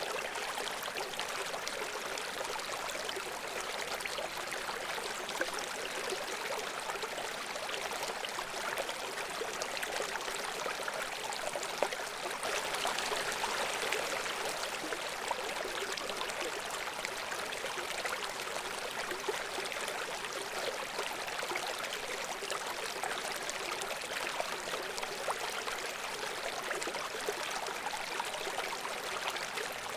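A babbling brook: shallow water flowing and splashing over stones in a steady, bubbling rush, swelling slightly about halfway through.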